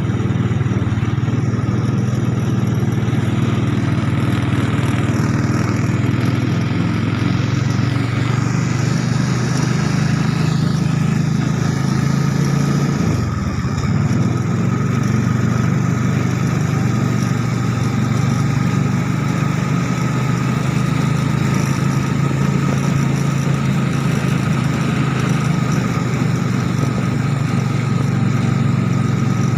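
Small motorcycle engine from a three-wheeled cargo motorbike, fitted in a homemade mini Jeep, running steadily under way. The engine note drops briefly about halfway through, then picks up again.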